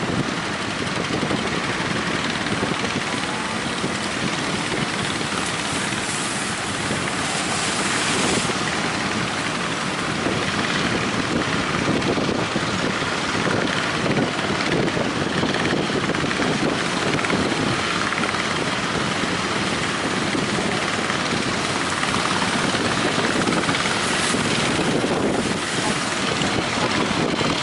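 Strong wind buffeting the microphone over the steady noise of waves breaking on the shore.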